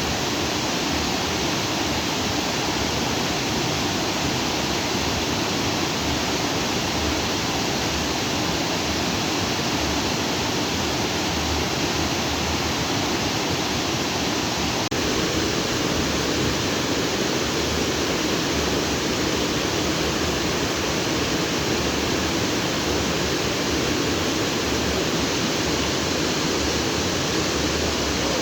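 Stream water flowing freely over and between rocks, a steady rushing with a slightly deeper tone after about halfway through.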